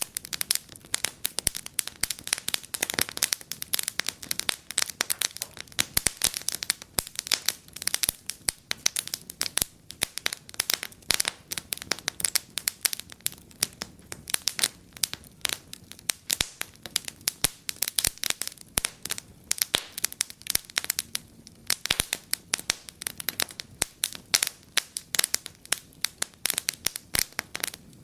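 Wood fire in a fireplace crackling steadily, with many small irregular snaps and pops.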